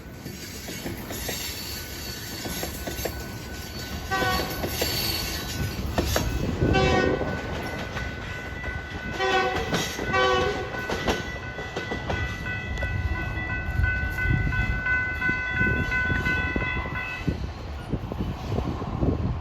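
BNSF freight train of tank cars rolling past with a steady low rumble of wheels on rail. Short pitched blasts come about four seconds in and again around nine to ten seconds in. A high steady tone sounds from about twelve to seventeen seconds in.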